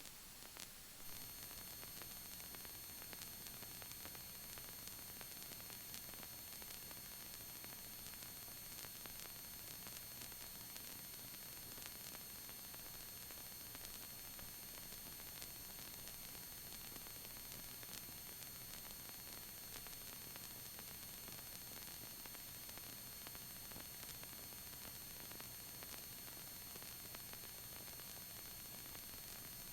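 Faint steady electronic hiss from the cockpit intercom audio feed, with a few thin high whining tones setting in about a second in and a faint low hum.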